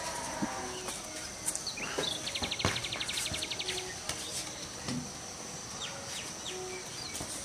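Rural outdoor ambience with birds chirping. About two seconds in, a bird gives a fast, even trill lasting about a second and a half.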